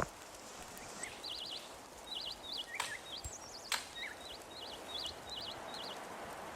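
A small songbird singing a run of short, fast-warbling high chirps over a steady outdoor hiss, with two sharp clicks in the middle.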